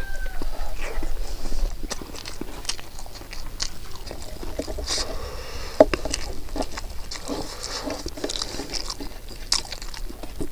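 Close-up eating sounds of a person biting and chewing braised pig head meat and rice: wet chewing and smacking with irregular crunchy clicks, and one sharper snap about six seconds in.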